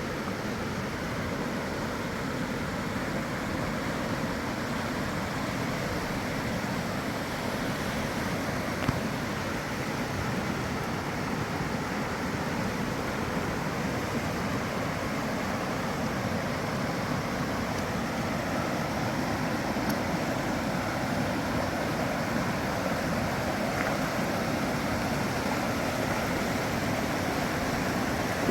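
Flooded river rushing past, a steady, unbroken wash of water noise, with one faint click about nine seconds in.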